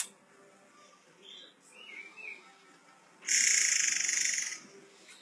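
Murai air (forktail) calling: a few soft curving chirps, then one loud, harsh, hissing screech lasting just over a second.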